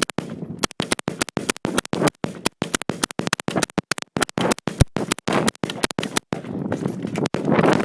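A line of M16A2 rifles firing on semi-automatic: many sharp shots, several a second, irregular and overlapping as shooters fire their zeroing rounds.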